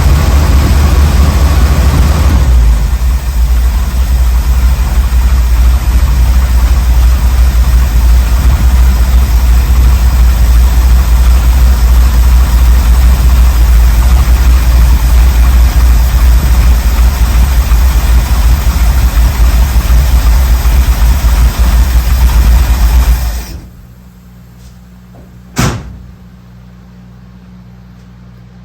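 Ford 351M V8 engine of a 1979 Ford Bronco running steadily, with a strong low rumble. It shuts off abruptly near the end, followed by a single sharp click.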